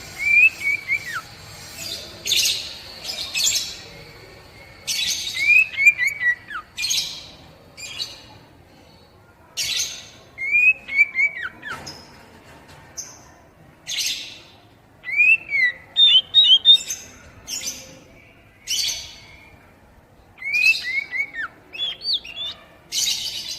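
Oriental magpie-robin (kacer) singing its basic 'poci' song in repeated phrases. Harsh rasping bursts alternate with short falling whistles, a new phrase every two to three seconds.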